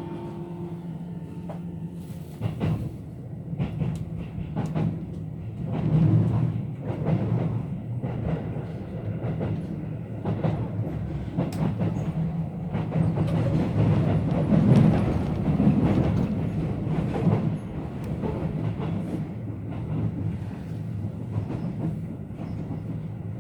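Keihan 3000 series electric train running, heard from inside the car: a steady low hum from its Toyo IGBT-VVVF traction motors under wheel-on-rail noise, with irregular clicks from rail joints. The noise swells to its loudest about two-thirds of the way through.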